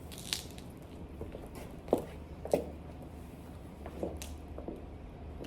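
A few light knocks and clicks, spaced irregularly, over a steady low hum.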